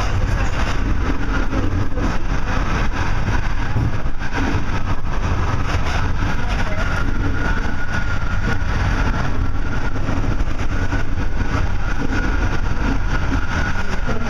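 Metra commuter train running along the track, heard from inside its cab car: a steady rumble of wheels on the rails.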